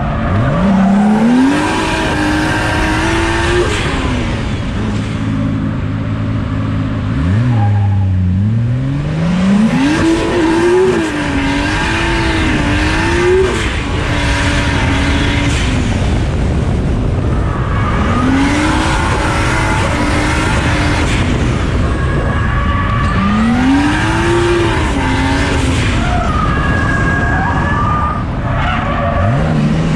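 630-horsepower drift car's engine revving hard, its pitch repeatedly climbing and dropping as the throttle is worked through a drift run, with tyres squealing and skidding underneath.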